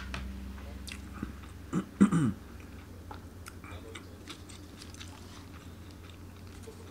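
A person chewing food, with small clicks of chopsticks and a plastic food tub being handled. A sharp click comes at the start, and two short mumbled voice sounds come about two seconds in.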